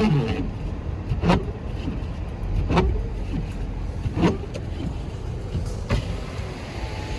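A car driving on a snowy road, heard from inside the cabin: a steady engine and road rumble, with a short swish of the windshield wipers about every second and a half.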